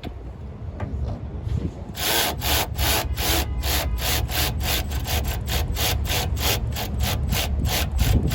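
A hand tool working in quick, even rasping strokes, about three or four a second, starting about two seconds in and running on for some six seconds, over a low rumble.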